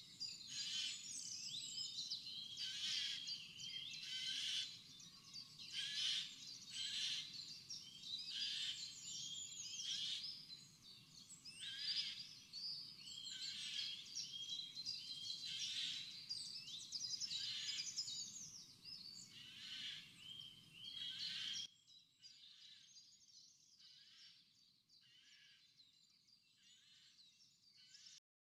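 Birds singing: a steady run of short chirping, warbling phrases over a faint outdoor hiss, dropping abruptly to a much fainter level about three-quarters of the way through.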